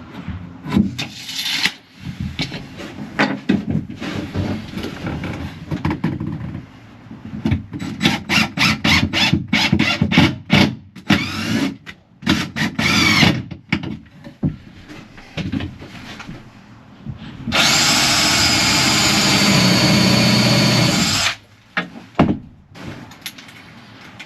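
Cordless drill driving screws into wood in short start-stop bursts, its motor whining up in pitch on several bursts. Near the end a power tool runs loud and steady for about four seconds.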